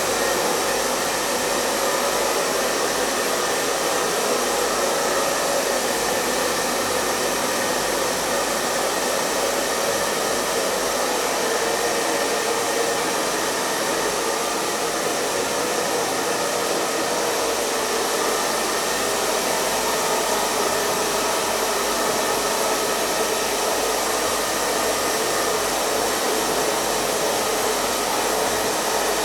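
Hair dryer running steadily: an even, unchanging rush of blown air with its motor's faint high whine.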